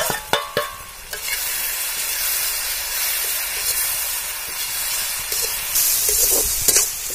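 Chopped goat intestine dropped into a hot kadai of frying onion and tomato: a few clatters in the first second, then a steady sizzle as it is stirred with a slotted metal ladle, with a few knocks of the ladle near the end.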